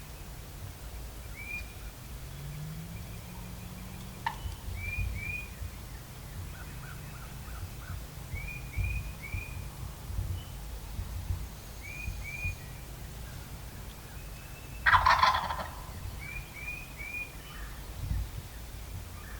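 A wild turkey gobbler gobbles once, loudly, for about a second, about fifteen seconds in. Small groups of short bird chirps repeat every few seconds throughout.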